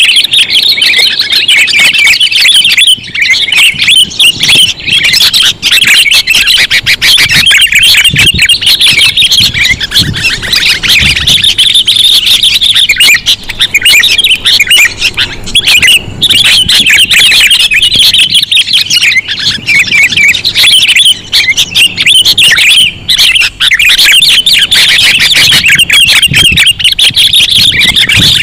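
Sooty-headed bulbul (kutilang) calls played as a trapping lure: a loud, unbroken stream of rapid chirps and squawking chatter with only brief gaps.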